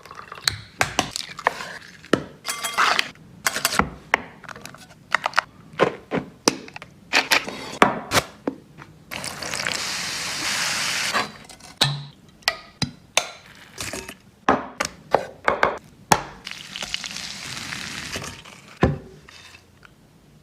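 Kitchen preparation sounds: a run of sharp knocks, taps and clinks of utensils, dishes and a knife on a wooden board, with two stretches of steady hiss, one about halfway through and one near the end.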